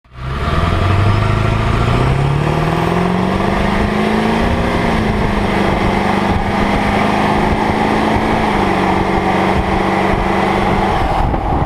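Ford 7.3L Powerstroke V8 turbodiesel accelerating, its engine note rising steadily for about four seconds, then holding steady at cruise with a slight drop in pitch near the end.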